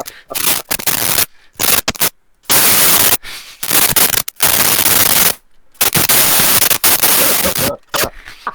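Loud, harsh static-like noise from a microphone, coming in about half a dozen long bursts that cut in and out abruptly with short silences between them.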